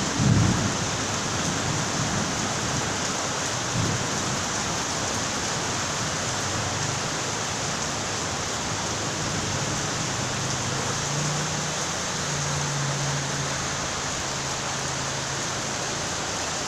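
Steady rain falling, with a brief low rumble about half a second in, the tail of distant thunder.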